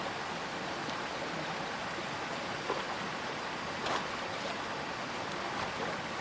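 Steady rushing noise of flowing water, with a couple of faint light knocks about three and four seconds in.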